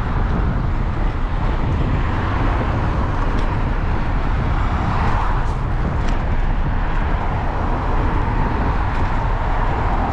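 Steady wind rumble on a GoPro's microphone while a mountain bike rolls along, with tyre noise and a few faint ticks near the middle.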